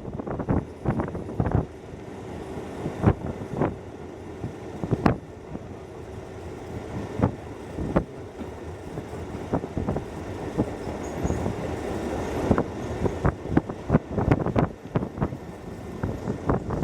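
Hokuso Railway 7260 series electric train running, heard from inside the car: a steady rumble with sharp clacks as the wheels pass over rail joints and points at irregular intervals.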